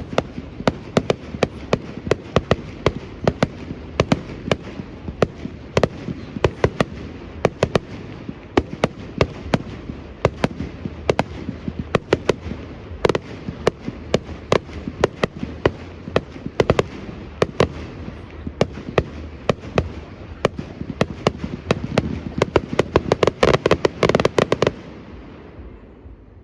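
Fireworks display going off: a rapid, continuous barrage of bangs, several a second over a rumbling background, building to its densest just before it stops abruptly near the end.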